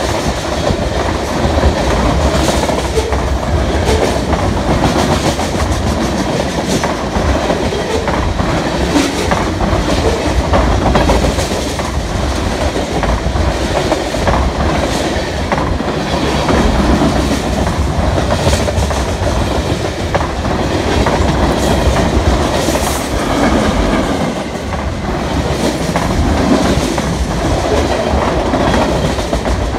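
Freight cars rolling past close by at a steady speed: a continuous rattle and rumble of the cars, with the wheels clicking over the rail joints.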